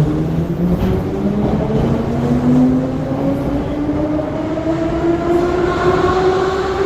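Moscow Metro 81-717.5M/81-714.5M 'Nomernoy' train accelerating, its traction motor whine rising steadily in pitch over the rumble of the running gear.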